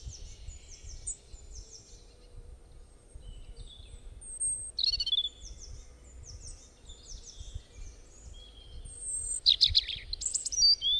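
Birds chirping: repeated short, high, downward-sweeping chirps, with a louder burst of rapid notes near the end, over a faint low rumble.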